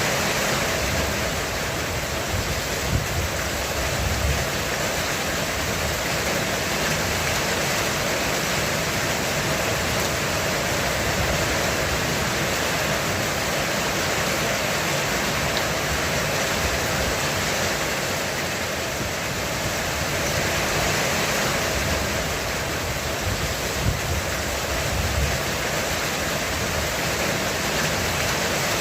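Heavy rain drumming steadily on a roof as a dense, even hiss. Low thunder rumbles in the background, swelling a few seconds in and again later on.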